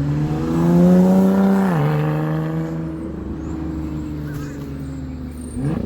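Lotus Evora's Toyota-sourced 3.5-litre V6 revving: the pitch climbs for nearly two seconds, drops back sharply and settles to a steady lower note, then a quick throttle blip near the end.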